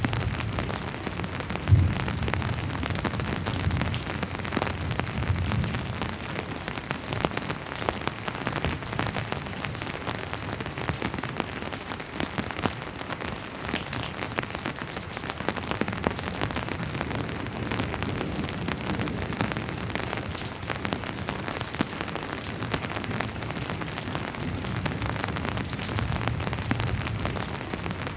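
Steady rainfall, with many individual drops ticking through an even hiss. A low rumble swells and fades in the first few seconds and again near the end, and a single sharp knock stands out about two seconds in.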